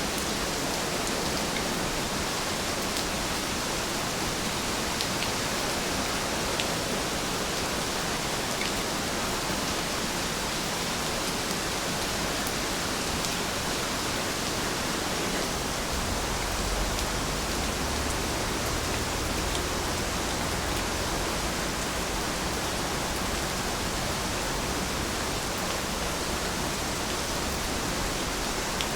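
Steady rainfall, an even hiss with a few faint drop ticks. A low rumble swells for a few seconds about halfway through.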